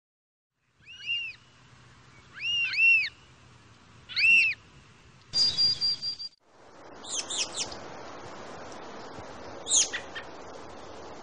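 Birds chirping. Several short arched chirps come in pairs during the first few seconds. After a brief break, a steady rushing noise sets in, with further bird calls over it.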